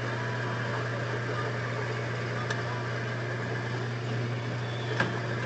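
Restored 1940s Craftsman floor-model drill press running steadily with an even electric motor hum. There is a small click about halfway through and a sharper knock near the end.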